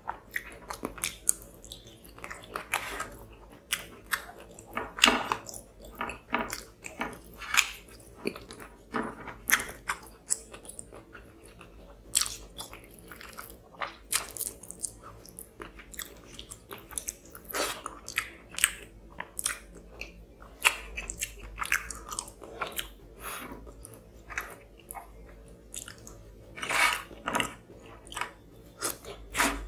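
Chewing and wet mouth sounds of a person eating fish curry and rice by hand: an irregular run of sharp smacks and clicks.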